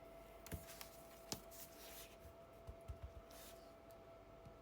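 Faint paper-handling sounds: a couple of soft taps, light rustles and a few dull thumps as a piece of cardstock is positioned and pressed down onto a handmade card, over a faint steady hum.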